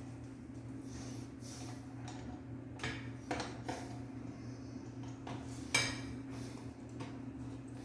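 A few light clicks and knocks from parts and tools being handled, with one louder metallic clink that rings briefly about six seconds in, over a steady low hum.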